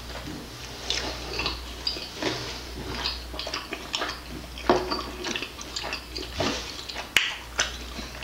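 Close-up chewing and biting of crispy, slightly over-cooked barbecue chicken wings: irregular crunches and wet mouth sounds, the sharpest crunch about seven seconds in, over a steady low hum.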